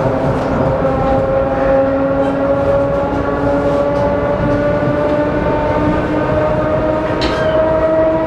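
ER2K electric train's traction motors whining inside the passenger saloon, the pitch climbing slowly as the train gathers speed, over a steady rumble of wheels on rails.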